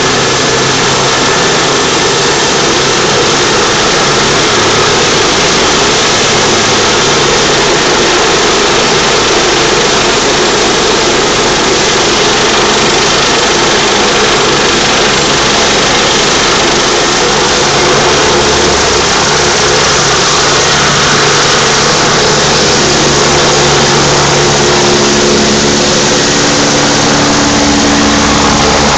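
Medevac helicopter running loudly: a steady rush of turbine and rotor noise. From about two-thirds of the way in, a steady low hum with several tones grows stronger beneath it.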